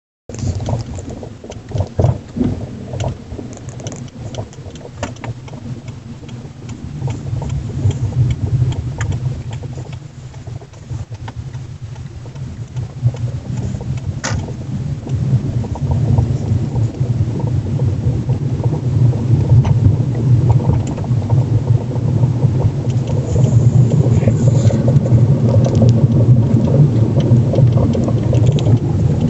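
Car driving over a rough road: a low road rumble that grows louder over the second half, with sharp knocks and a light rattle from the top strut mount. The mount is rigid, with no vibration isolation, and turns on split ShS20 spherical plain bearings.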